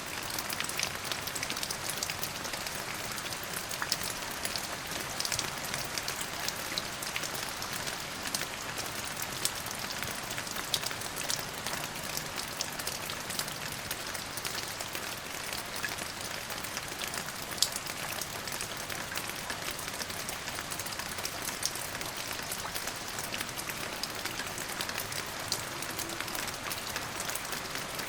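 Steady rain falling, an even hiss with many fine drops pattering and ticking on a surface, the odd louder drop standing out.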